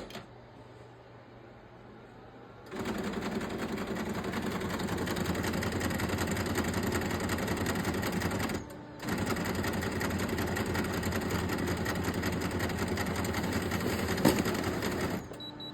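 Canon imageClass D1520 printer running with a loud, rapid mechanical rattle and grinding, a sign that it is struggling to pull paper. The rattle starts about three seconds in, breaks off briefly around the middle, resumes, and stops near the end.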